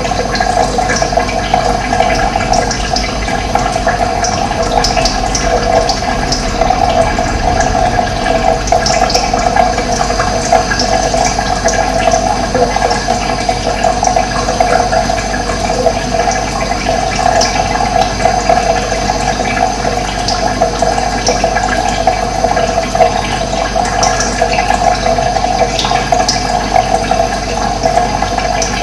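Running water, a steady rushing flow with a strong mid-pitched splashing.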